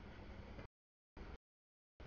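Freight train of tank cars rolling through a grade crossing, heard faintly as an even noise through a camera microphone. The noise comes in abrupt bursts, with dead silence between them, as the microphone cuts in and out.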